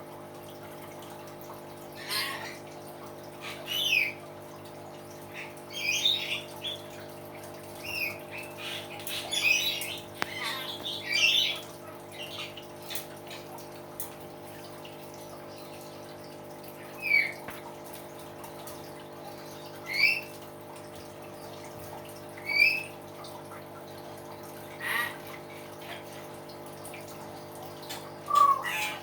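Hill myna giving a series of short, loud whistles and squawks, many of them quick pitch slides. The calls come in a busy run for the first dozen seconds, then singly every two to three seconds, over a steady low hum.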